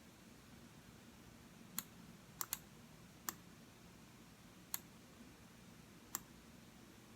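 Computer mouse button clicks: six sharp, separate clicks at irregular intervals, two of them a quick double click, over a faint steady hiss.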